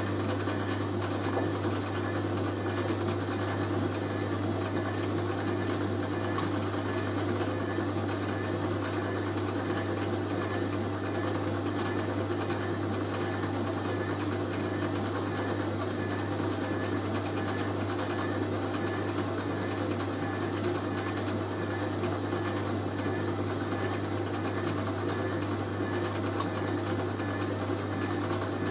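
Hoover A3060 Electronic 1100 front-loading washing machine running steadily, with a constant low hum and no break. This falls between the main wash's distribution drain and the first rinse.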